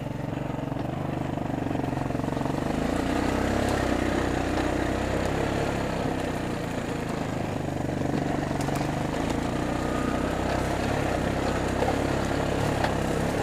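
Four-wheeler (ATV) engine running steadily, its pitch rising and easing a little now and then.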